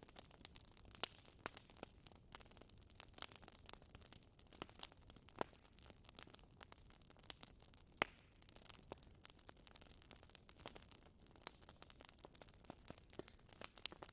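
Wood fire crackling: irregular sharp pops and snaps over a faint hiss, with the loudest snap about eight seconds in.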